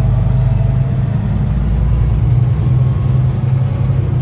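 Semi-truck's diesel engine and road noise heard from inside the cab as a steady low drone.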